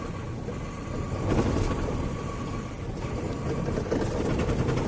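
Truck engine idling: a steady low rumble with a faint, steady high whine.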